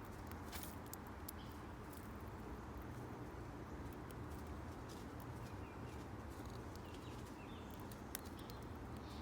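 Birds at a seed feeder: scattered sharp taps and clicks of pecking, with a few faint short chirps, over a steady low rumble.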